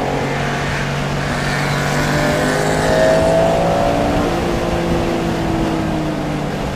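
Porsche engine running hard at speed, with road and wind noise. The engine note holds fairly steady, swells a little about three seconds in and eases slightly lower later on.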